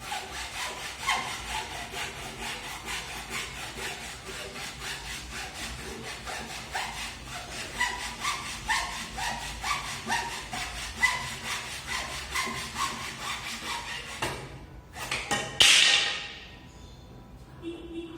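Hand saw cutting through wood in steady back-and-forth strokes, about two a second, each stroke with a short squeal. The sawing stops near the end, followed by a loud rasping burst.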